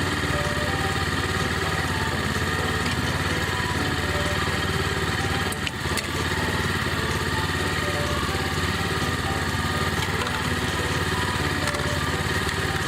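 Small single-cylinder GH100 engine, salvaged from a walk-behind rice transplanter, running steadily at a constant speed. About six seconds in the sound dips briefly and there are a couple of sharp clicks.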